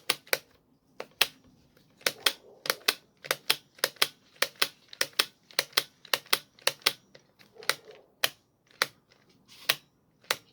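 Large angle grinder's plastic trigger switch clicked on and off over and over with the motor not running: sharp clicks, often in quick pairs of press and release. The switch is being tested after its spring was stretched and it was cleaned, and it now seems to release properly.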